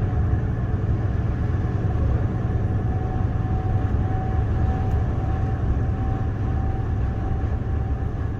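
Scania R410 Euro 6 truck running steadily, a constant low engine sound with a faint steady whine over it.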